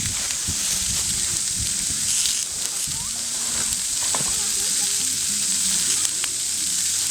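Food frying in a pan over a wood campfire: a steady sizzling hiss with a few small pops.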